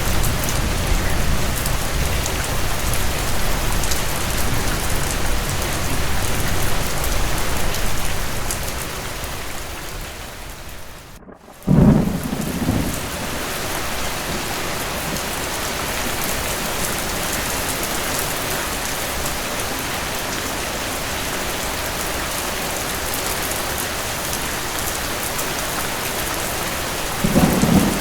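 Steady rain on a hard surface with a low thunder rumble at first. The sound fades briefly about eleven seconds in, then a sudden thunderclap comes and even rain follows. Another thunder rumble starts near the end.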